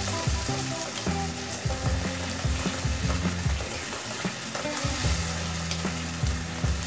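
Pointed gourd paste frying in hot mustard oil, with a steady sizzle as it cooks down and its water boils off. A silicone spatula stirs it round the pan.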